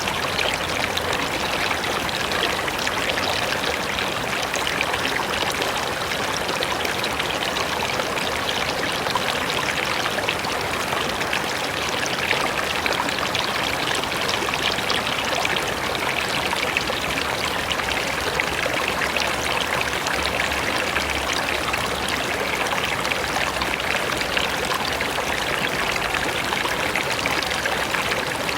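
River water flowing, a steady, unbroken rushing with fine splashing.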